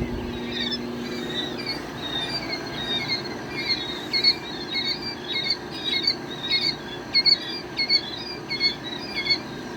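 A brood of baby chicks peeping: many short, high peeps overlapping, several a second, steady throughout.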